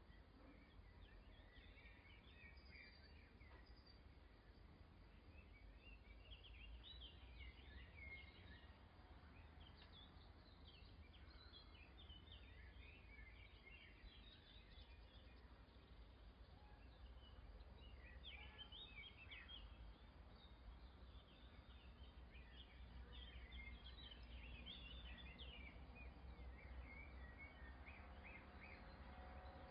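Near silence: faint birds chirping and twittering in scattered clusters of short chirps, over a steady low rumble.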